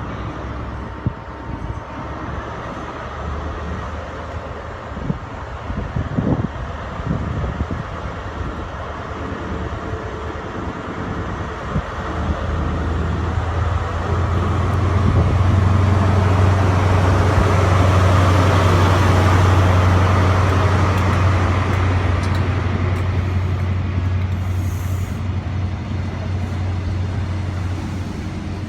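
A train passing. A deep, steady engine drone builds from a little under halfway, swells with rushing noise to a peak past the middle, then fades.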